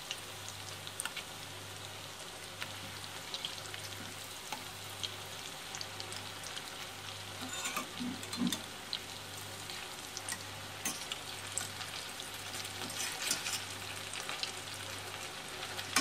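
Zucchini fritters deep-frying in hot oil in a steel pot: a steady sizzle with scattered crackling pops. Metal tongs click against the pot and fritters a few times as the fritters are turned, most plainly about halfway through.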